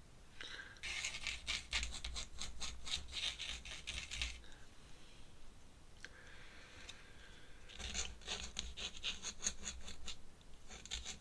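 A pen scratching across paper in quick, repeated strokes, in two bouts with a quieter pause between: clouds being sketched in ink.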